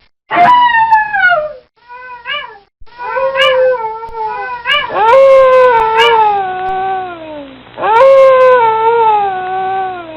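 Dog howling: several short rising-and-falling yelps, then two long howls that each slide down in pitch over about two and a half seconds.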